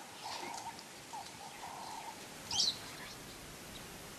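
Bird calls: a low two-part call, a short note then a longer one, repeating about every second and a half, and a sharp high chirp about two and a half seconds in.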